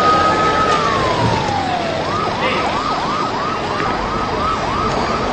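Emergency vehicle siren: a long held wail that slides down in pitch, then switches about two seconds in to a fast yelp of about three whoops a second, over steady street noise.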